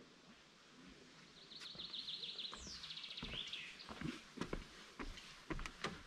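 A songbird sings a rapid trill of repeated notes and then a quick descending trill. About three seconds in, footsteps on a forest trail begin, roughly two steps a second.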